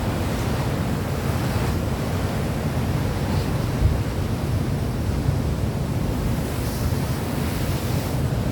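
Steady rushing noise with a deep, unsteady low rumble, with a couple of soft swells of hiss in the upper range.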